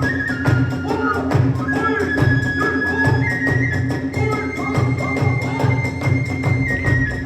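Kagura hayashi music: a bamboo flute holds long high notes over quick steady drumbeats and fast, regular clashing of small hand cymbals.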